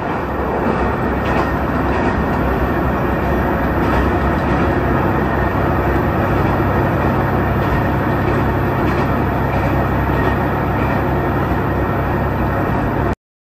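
Hisatsu Orange Railway train running at speed, a steady rumble of wheels and motor heard from inside the car. The sound cuts off abruptly near the end.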